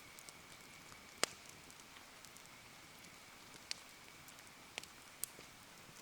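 Rain falling steadily around a wood campfire, with the fire giving a few sharp crackling pops, the loudest about a second in and three more in the second half.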